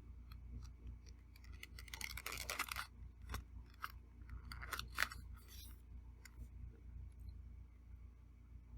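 Eating sounds: light clicks of cutlery against a plate, with two short scraping, crackly passages about two and five seconds in.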